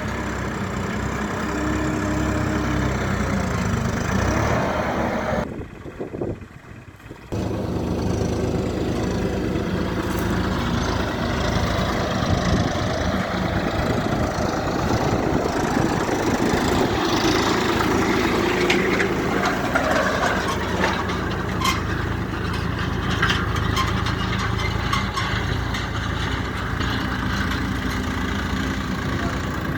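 Swaraj 969 FE tractor's diesel engine running steadily. The sound drops away sharply for about a second and a half about six seconds in.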